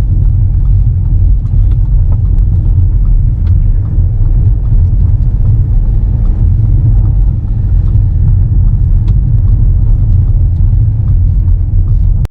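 Loud, steady low rumble of a car driving, road and engine noise heard inside the cabin, with a few faint ticks.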